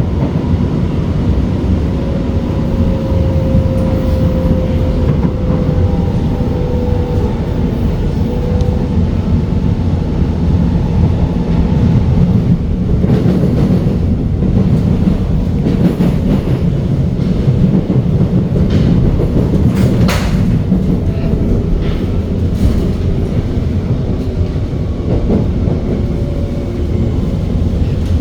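Cabin noise of an SMRT R151 metro train running along the track: a steady loud rumble of wheels on rail, with a faint motor whine that falls slightly in pitch over the first several seconds. Scattered sharp clicks come over the rumble in the second half.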